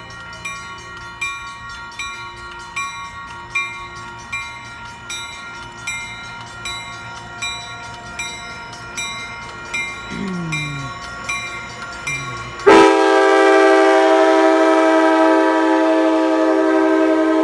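A bell dings steadily about once every 0.8 seconds as the ACE test train approaches. About 13 seconds in, the lead locomotive's air horn sounds a loud, sustained multi-note chord.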